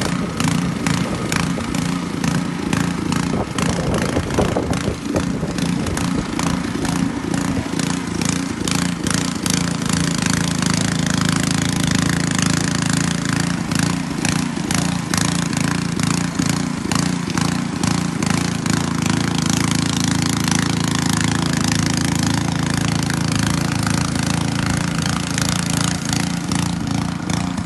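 Snow blower's small gasoline engine running steadily.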